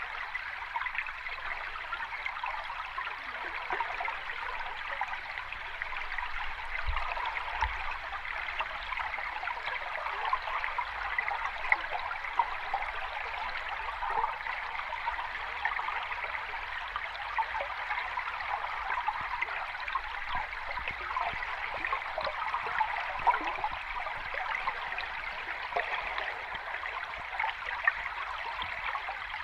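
Water running and splashing over rocks in a small cascade, a steady bubbling rush with many small splashes.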